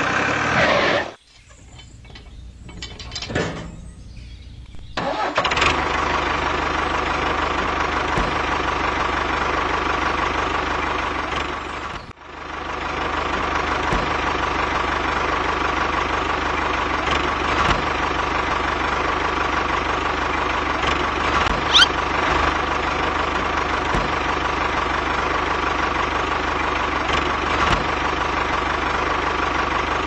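Miniature DIY tractor's motor running with a steady, engine-like drone. It drops away about a second in, comes back about four seconds later, and breaks off briefly near the middle before running on.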